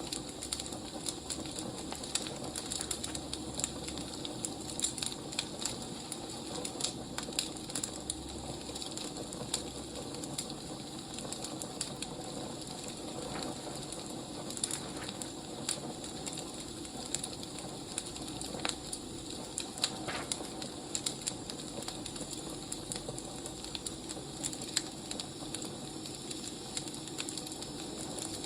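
Wood fire crackling: a steady low hiss with irregular snaps and pops throughout.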